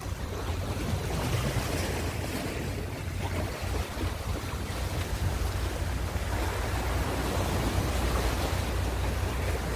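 Ocean surf washing continuously, with a low rumble of wind on the microphone, growing slightly louder toward the end.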